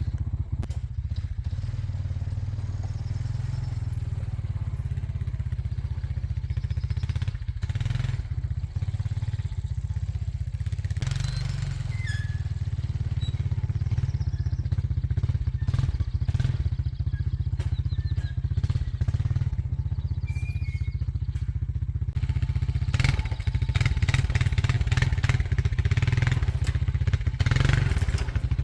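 ATV engine running steadily at low revs, with scattered knocks and clatter; it gets louder and busier near the end.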